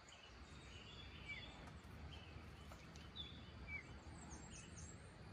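Near silence: faint outdoor ambience with a handful of short, high bird chirps scattered through it.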